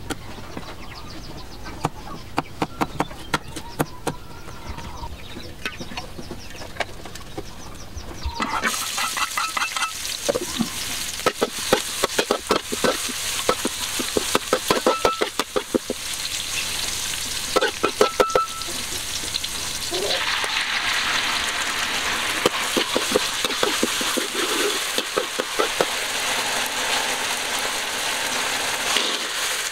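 A knife chopping garlic, chillies and herbs on a wooden board in a run of quick taps. About eight seconds in, oil sizzles in a metal wok as the chopped garlic and chillies fry, with a metal spatula scraping and clinking against the wok. The sizzle grows louder and thicker about twenty seconds in.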